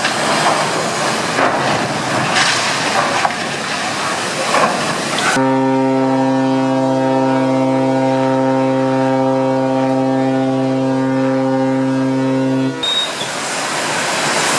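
A ship's horn gives one long, steady blast of about seven seconds, starting about five seconds in and cutting off abruptly. It sounds over a continuous rushing noise.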